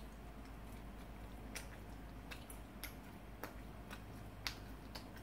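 Faint, irregular wet clicks and smacks of a person chewing a mouthful of food.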